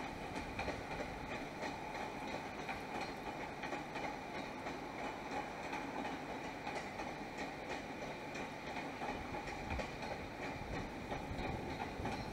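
JR E231-series electric train rolling slowly into the station. Its wheels click over the rail joints above a steady running rumble.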